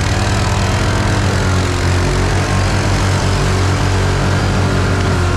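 Can-Am ATV engine running steadily while riding, its pitch drifting gently up and down with the throttle.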